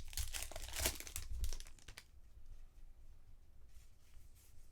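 Foil trading-card pack wrapper crinkling and tearing as it is opened, dense for about two seconds, then dropping to a faint rustle of cards being handled.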